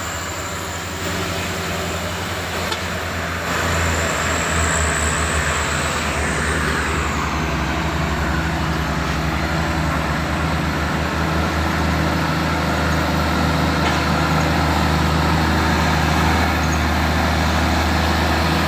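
Diesel truck engine running hard under load, a steady low drone that grows louder about four seconds in and throbs for several seconds. A thin high whine rises over it briefly and then falls away.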